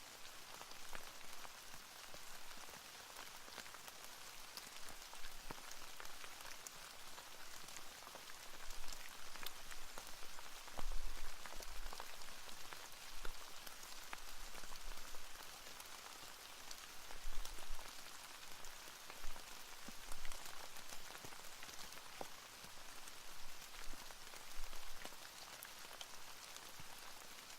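Steady rain falling, a continuous hiss dotted with the ticks of individual drops, with a few brief low rumbles now and then.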